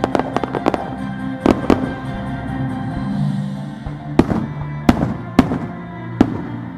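Fireworks shells bursting over show music: a quick run of sharp bangs in the first second, then single louder reports spaced about half a second to a second apart.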